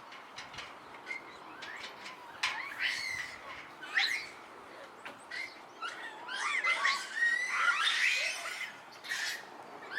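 Many short, high chirping and squealing animal calls with rising and falling pitch. They are scattered at first and grow dense and overlapping from about six to nine seconds in.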